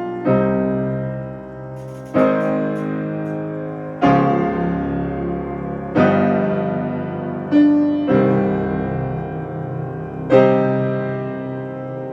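Solo piano playing slow chords, each struck and left to ring and fade, a new chord about every two seconds.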